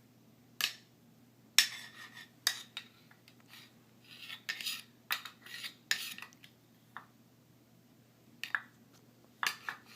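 A small metal pan and lid clinking, knocking and scraping together at an irregular pace as a baby handles them, with a busier run of clatter in the middle.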